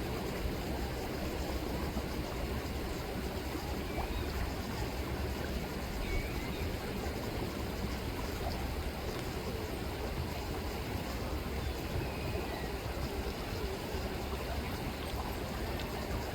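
River water rippling and rushing steadily over a low rumble, with a few faint gull calls now and then.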